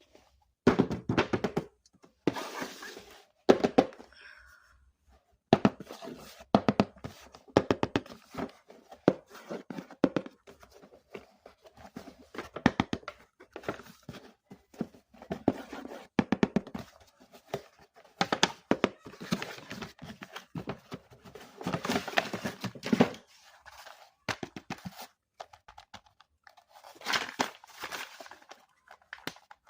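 Hands handling a plastic toy and its packaging: irregular knocks, taps and crinkling, in uneven clusters with a few short pauses.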